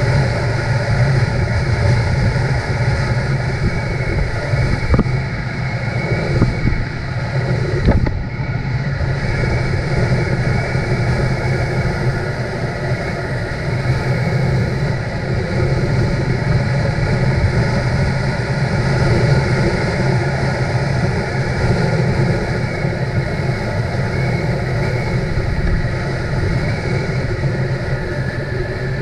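Motorcycle engine running steadily at cruising speed, with wind on the microphone.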